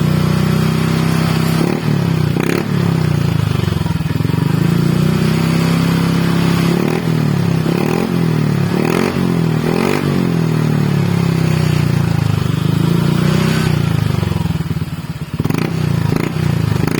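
Honda 160 cc single-cylinder scooter engine running through a bored-out, stock-look aftermarket exhaust. It idles with several short throttle blips, the pitch rising and falling, most of them in the middle.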